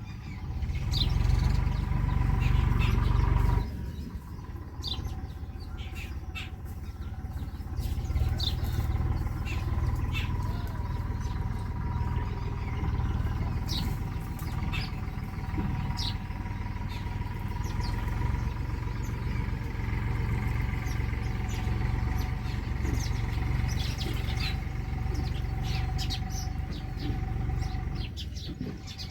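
Small birds chirping repeatedly, short high calls scattered throughout, over a steady low rumble that is louder for the first few seconds.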